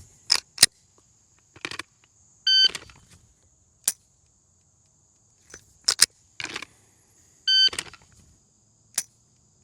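Electronic shot timer beeping twice, about five seconds apart, each beep followed about a second later by a single sharp click of a dry-fired pistol's trigger. Between the two strings come a few more mechanical clicks and rattles of the pistol being handled, over a steady high insect buzz.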